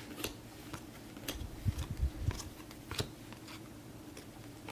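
Topps Chrome football trading cards being handled and flipped through: a scatter of crisp clicks and snaps, with a few soft low thumps about two seconds in.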